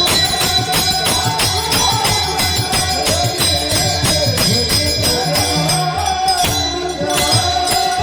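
Marathi devotional bhajan music: small hand cymbals (taal) keep a steady jingling beat under a wavering melody line, with low drum strokes beneath.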